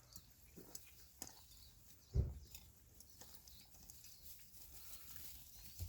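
Young animals moving about on sawdust: faint scattered pattering and rustling, with one low thump about two seconds in.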